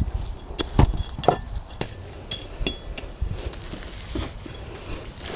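Scattered knocks and light clinks while handling things during garden work, with a dull thump a little under a second in and a sharper knock just after one second.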